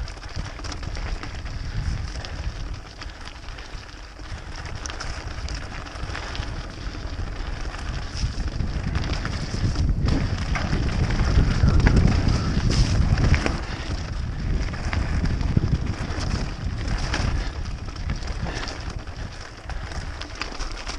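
Wind rumbling on an action camera's microphone while a 2006 Specialized Stumpjumper FSR mountain bike is ridden over a wet, muddy trail, with steady rattles and clicks from the bike and tyres on dirt and stones. The rumble is loudest about halfway through.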